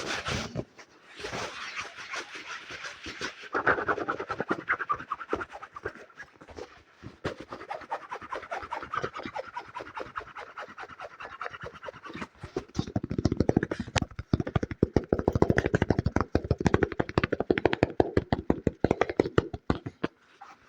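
Fast ASMR tapping and scratching on an object close to the microphone, a dense run of quick strokes. From about two-thirds of the way in the strokes get heavier and deeper. They stop shortly before the end.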